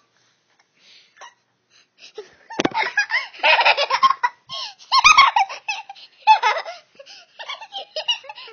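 A young child laughing and giggling hard in quick bursts with short breaks, starting about two and a half seconds in.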